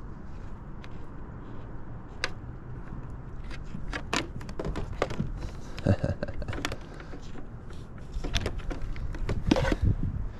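Scattered clicks and metallic knocks of hardware being handled while an antenna's coax fitting is worked loose, growing busier and louder about halfway through, over a steady low rumble.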